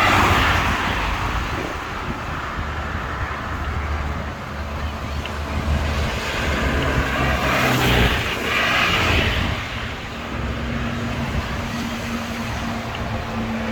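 Wind rushing over the microphone during a bicycle ride, with road traffic passing. A steady low hum comes in about two-thirds of the way through.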